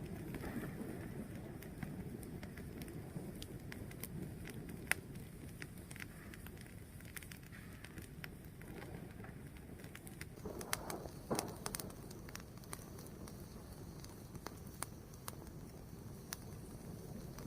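A fire burning, with a low steady rumble and irregular crackles and pops; one sharper pop about five seconds in and a quick cluster of pops a little past the middle.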